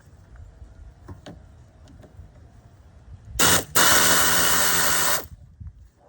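Cordless power tool with a 13 mm socket running in a short blip and then a steady burst of just under two seconds, spinning a nut off the battery cable terminal. A few light clicks come before it.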